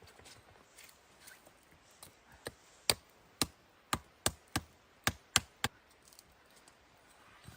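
A quick run of about nine sharp knocks or chopping strikes, roughly three a second, starting about two and a half seconds in and stopping a little after five and a half seconds.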